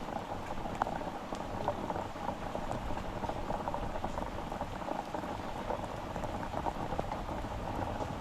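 Heavy rain falling steadily, a dense even hiss made of many small drop ticks.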